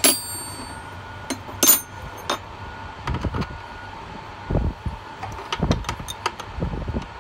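Wrench working a hydraulic hose fitting on a wheelchair-lift cylinder: two sharp metal clinks early, then a run of duller knocks and taps as the fitting is tightened.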